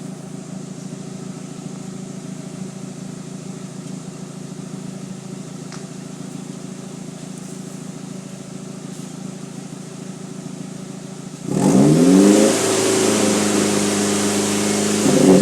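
2001 Audi A4 Avant 1.8T's turbocharged four-cylinder exhaust, running through a Flowmaster 60 Series muffler with the resonator removed. It idles steadily, is revved sharply about eleven seconds in, holds at higher revs, and rises again near the end.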